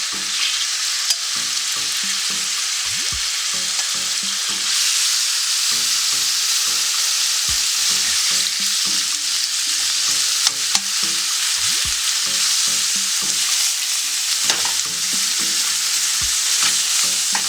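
Chicken strips sizzling in a hot, lightly oiled frying pan: a steady hiss that grows stronger about five seconds in, with a few light clicks.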